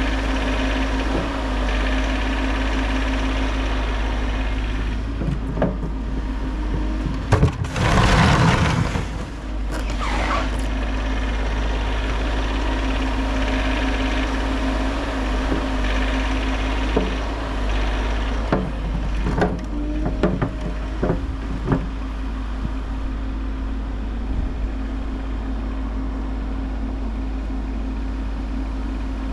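Bobcat E50 compact excavator's diesel engine running steadily. A loud burst of hissing noise comes about eight seconds in, and a string of short knocks and clunks about twenty seconds in.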